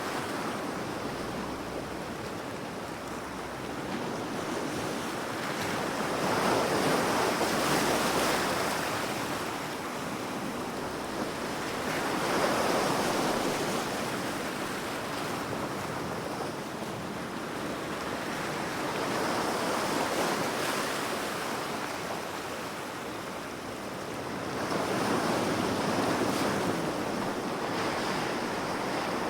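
Ocean surf: waves breaking and washing in, the rushing noise swelling four times, about every six or seven seconds.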